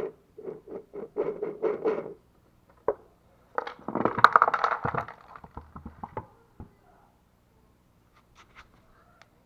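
Scraping, rubbing and knocking of washing-machine parts being pried apart by hand during disassembly. A run of short scraping strokes is followed by a sharp click, then a louder scraping stretch about four seconds in, and a few light clicks near the end.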